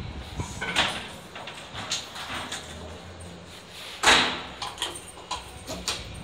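Stationary Meitetsu electric trains at a platform: scattered knocks and clunks, with one loud sudden bang about four seconds in, over a low steady hum.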